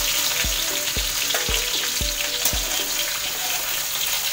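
Ivy gourd and potato pieces sizzling in hot mustard oil in a metal kadhai. A metal spatula knocks against the pan about twice a second as the pieces are scooped out, and the knocks stop about two-thirds of the way through.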